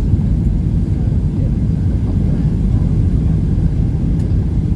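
Steady low cabin rumble of a Boeing 737-800 in flight, the roar of its CFM56 jet engines and the airflow heard from inside the passenger cabin.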